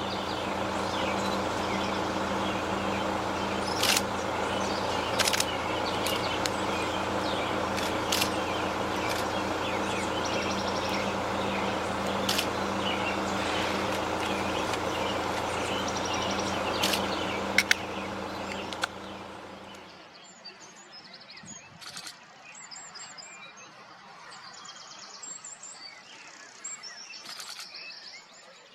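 Small birds chirping over a loud, steady background noise with a low hum, marked by a few sharp clicks. About twenty seconds in, the noise drops away, leaving quieter, high-pitched bird chirps.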